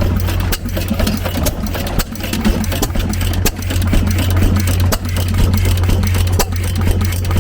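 Antique stationary hit-and-miss farm engines running, giving sharp irregular firing beats over a steady low drone that dips briefly several times.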